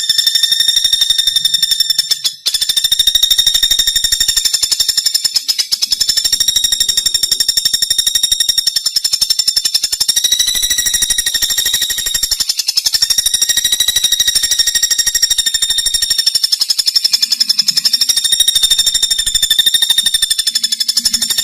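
Pelatuk bawang woodpecker giving a loud, high-pitched, very rapid trilling call that runs on almost without pause, broken once briefly about two seconds in, its pitch wavering slightly.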